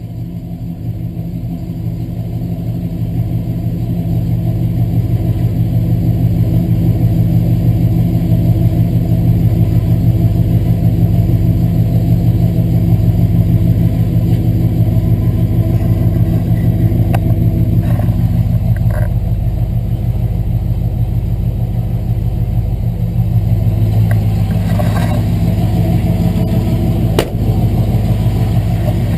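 1964 Chevrolet C20 truck's engine idling steadily, growing a little louder over the first few seconds, with one sharp click near the end.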